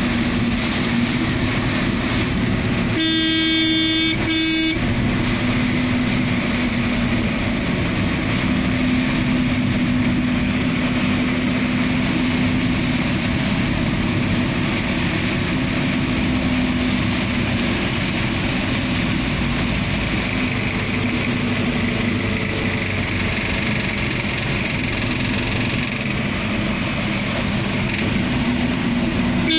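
Heavy rain on a vehicle's roof and windscreen mixed with road noise and a steady engine hum, heard from inside the cab while driving. A vehicle horn sounds once, for under two seconds, about three seconds in.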